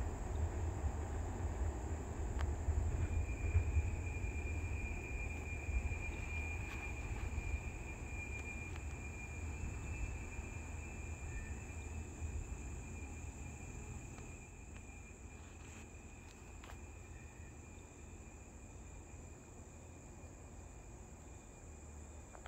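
Low rumble of a freight oil train rolling on the rails, fading steadily as the train moves away into the distance. A steady chirring of insects carries on above it.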